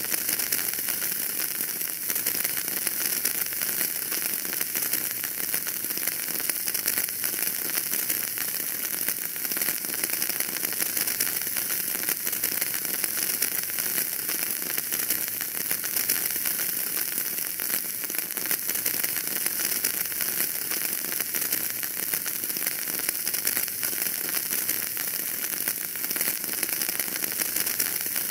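Fire crackling steadily in a fireplace: a dense run of small pops and ticks over a constant hiss.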